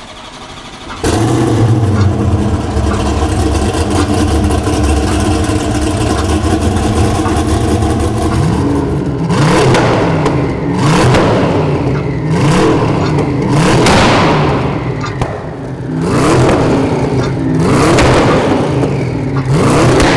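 Hennessey Venom F5's twin-turbo V8 coming in about a second in and idling steadily, then revved hard over and over, about six rising revs in the second half.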